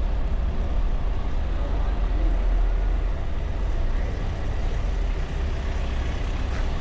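Steady driving noise of a car heard from a camera on its hood: a constant low rumble of wind and tyres on the road, with the engine underneath.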